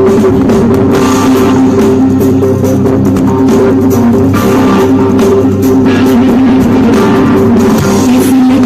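Live band music played loudly at a fusion music festival, two sustained notes held low under a dense, even mix.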